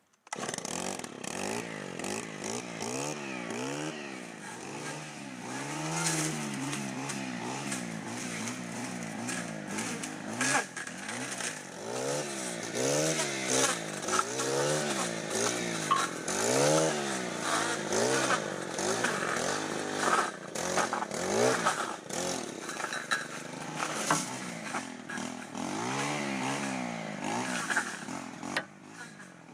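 Handheld gas-powered brush-clearing tool with a small two-stroke engine, revving up and down again and again as it cuts through thick brush.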